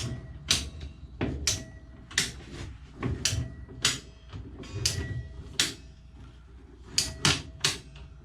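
Irregular sharp clicks and clunks, about one every half second to second, from a hand PVC pipe cutter and the freshly cut PVC pipe being handled.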